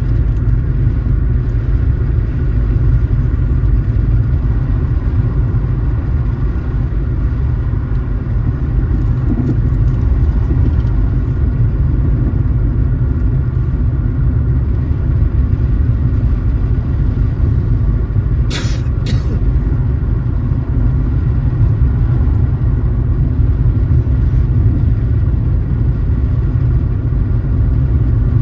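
Steady low rumble of a car driving along the road, engine and road noise together. About two-thirds of the way through come two brief sharp high sounds close together.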